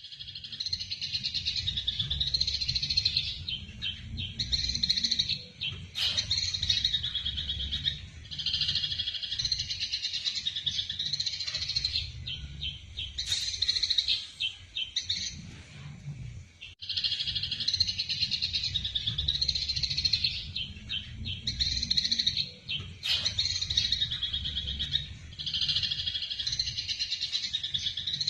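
Eurasian tree sparrows chattering in fast, dense runs of chirps, the agitated calls of sparrows fighting, in phrases of a few seconds with short breaks. A steady low hum runs underneath.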